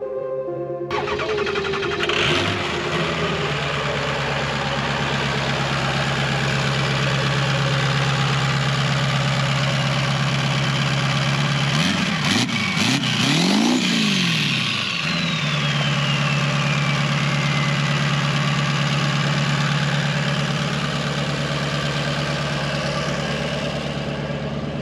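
Truck engine idling steadily, blipped in a few quick revs about halfway through, followed by a high whistle that falls slowly over several seconds before the idle settles again.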